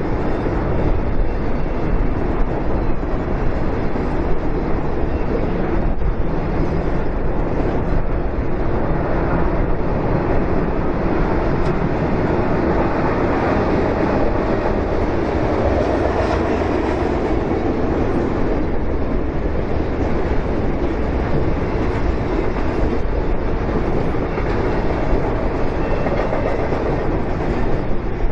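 Freight train rolling steadily past across a railroad bridge: a continuous rumble of wheels on rail with some clickety-clack.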